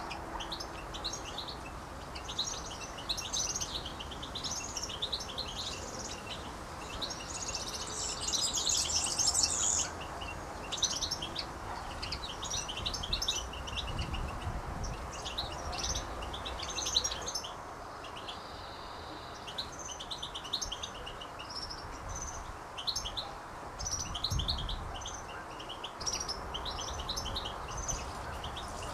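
Birds chirping and twittering, a continual run of short high chirps that grows densest and loudest about eight to ten seconds in.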